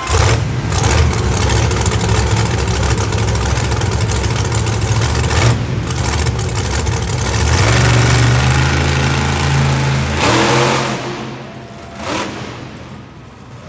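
Monster truck engine revving hard at high throttle, then backing off about ten seconds in.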